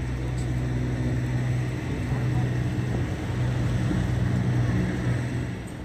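Steady low engine drone of a nearby motor vehicle, with a hum of evenly spaced low tones over a background hiss; it swells slightly and eases off near the end.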